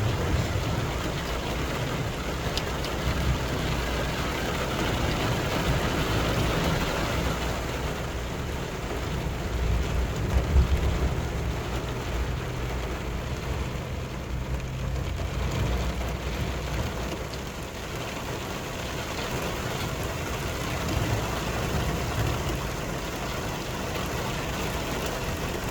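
Heavy rain pouring, a steady hiss with a low rumble underneath that swells briefly about ten seconds in.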